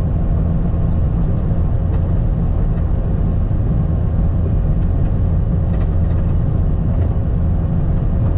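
Skid steer engine running steadily under load, a constant low drone with no change in speed.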